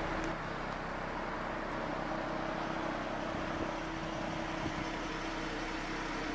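2012 Ford Mustang's 3.7-liter V6 idling steadily.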